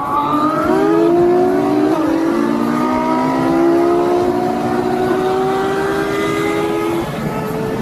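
Car engine accelerating hard through the gears. Its pitch climbs steadily and drops back at each of about three gear changes.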